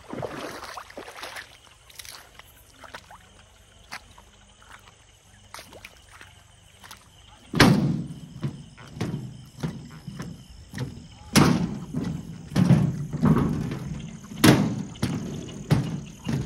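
Quiet at first with a few light clicks. About halfway in, heavy footsteps start, landing about once a second and thudding close to the microphone on slippery ground.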